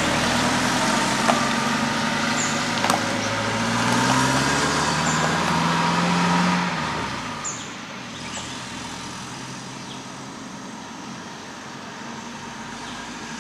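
A motor vehicle going by on a nearby road, its engine pitch rising as it runs past, then fading about seven seconds in to a low background hum. A few faint high chirps sound over it.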